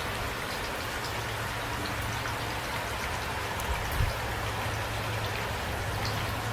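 Steady rain, with individual drops ticking through the hiss, and a single short low thump about four seconds in.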